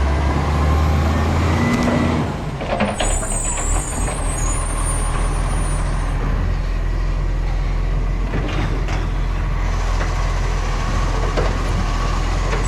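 Garbage truck's diesel engine running with a steady low rumble, with a high hiss starting about three seconds in and lasting about three seconds.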